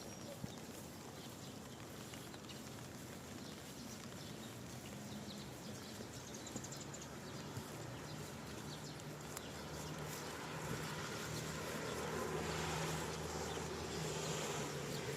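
Steady rain falling outdoors, with scattered small clicks of drops or steps on a wet path. A low hum grows louder in the second half.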